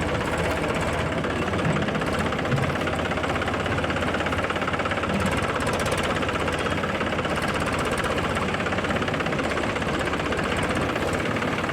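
Heavy diesel engine running steadily, with a fast, even knocking beat.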